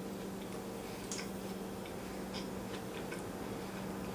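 Faint chewing of a taco: soft, irregular little mouth clicks, over a steady low hum.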